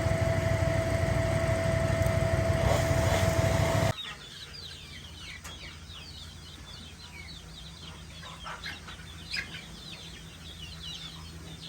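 An engine running steadily stops abruptly about four seconds in. After that, a pen of young chickens and guineas keeps up many short, high peeps and clucks.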